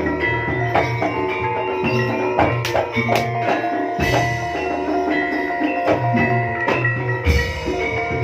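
Jaranan music played live by a gamelan-style ensemble: ringing struck metallophones and gongs over sharp drum strokes, with a deep low stroke about four seconds in and again near the end.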